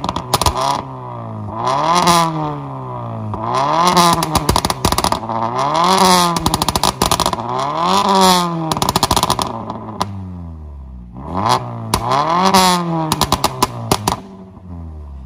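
Mazda 3 mild hybrid's engine through a valved aftermarket exhaust, blipped up and down about five times. Each blip is followed by a rapid crackle of pops as the revs drop: the overrun pops and bangs from a stage 1 ECU tune.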